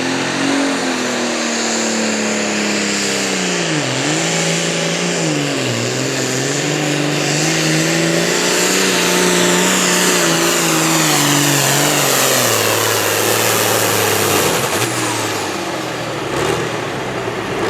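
Competition pulling tractor's engine running at full throttle on a pull, its pitch sagging briefly twice under load about four and six seconds in, then falling away about three-quarters of the way through as it lets off.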